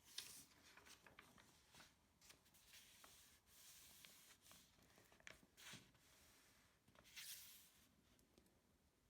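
Faint rustling of paper and small handling clicks, with a few soft swishes a couple of seconds apart.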